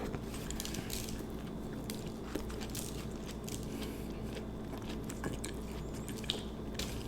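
Close-miked chewing of an Italian sub sandwich: scattered crisp crunches and mouth clicks over a steady low hum.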